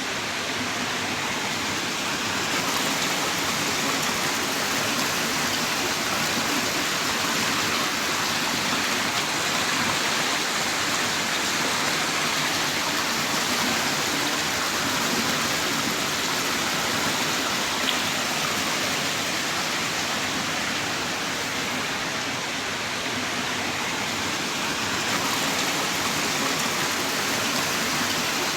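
Heavy rain pouring down steadily, a constant dense hiss of falling water.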